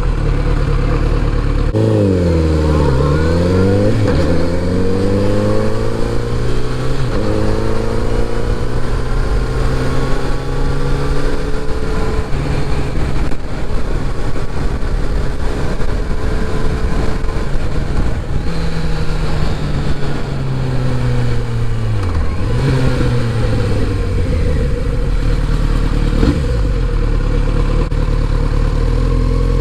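Kawasaki Z900RS inline-four engine running under way. Its pitch falls and then climbs again about two seconds in, holds fairly steady while easing down, then drops and rises again a little after twenty seconds, over a steady low rumble.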